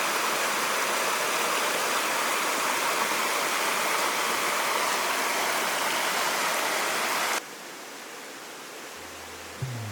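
River water rushing steadily. About seven seconds in it cuts off abruptly to a much quieter hiss, and music begins near the end.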